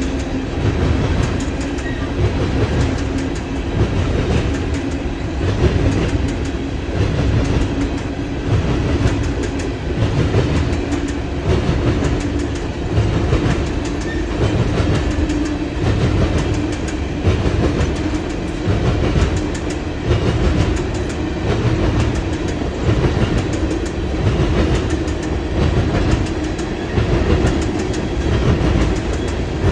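Freight train rolling past at close range, its wheels clattering over the rail joints in a steady rhythm that repeats about every second and a half, under a continuous low hum.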